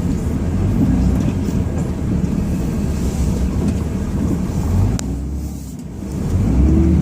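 Ram 2500 pickup's Cummins straight-six diesel running under load while plowing snow, heard from inside the cab. There is a sharp click about five seconds in, then the engine eases off briefly and revs back up near the end.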